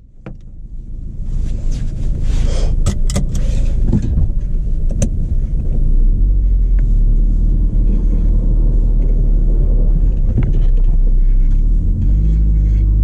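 Peugeot 106 engine running: it builds up over the first few seconds into a steady loud drone. A few sharp clicks sound about two to five seconds in.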